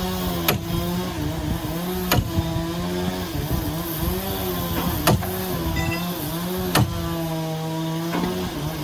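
An engine-driven machine running at a steady pitch, sagging briefly now and then as if under load, with four sharp knocks spread through the span.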